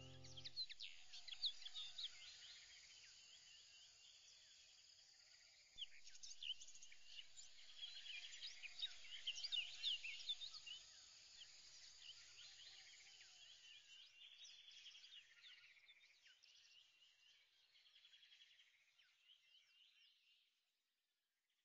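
Faint birdsong: many quick, high chirps from several birds, busiest in the middle and fading away shortly before the end.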